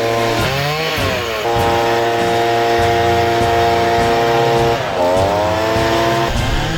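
An engine running, its speed dipping and picking back up about half a second in and again near five seconds in, holding steady in between.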